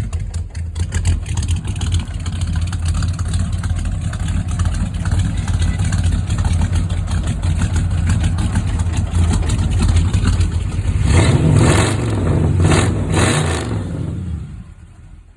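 Pontiac 389 V8 with a cross-ram intake running through 2.5-inch dual exhaust with 24-inch glass pack mufflers: a steady low idle rumble, a few short revs about eleven seconds in, then the sound falls away near the end.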